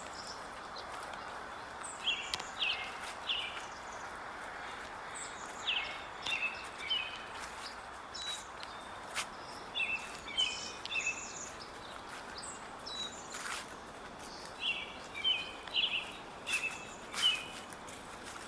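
Songbirds chirping in short bursts of quick, high notes, about five bursts a few seconds apart, over a steady outdoor hiss. There are a few sharp clicks in between.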